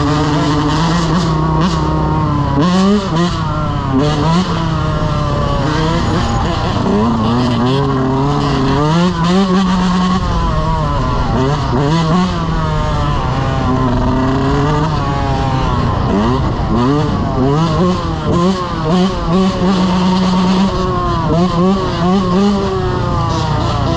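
Dirt bike engines revving hard, their pitch climbing and dropping over and over as the throttle opens and closes, with more than one engine running at once at times.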